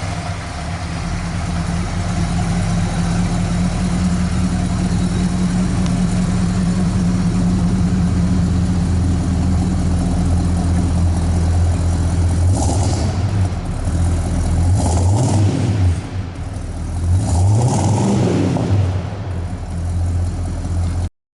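350 V8 with a MagnaFlow exhaust idling steadily with a throaty rumble, then revved a few times in the second half, the last rev the longest.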